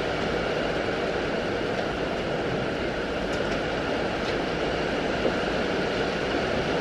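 Steady rain falling on the goat house roof, an even hiss with no let-up.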